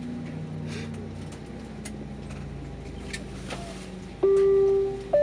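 Airbus A320 cabin after landing: a steady low hum with scattered light clicks. About four seconds in, a loud held electronic tone comes in, and a second, higher held tone follows near the end, like the first notes of a melody.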